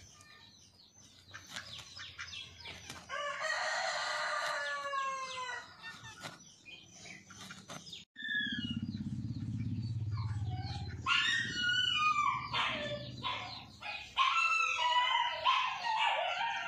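Bird calls: one long pitched call about three seconds in, then a run of shorter calls in the last few seconds, with a low hum in between.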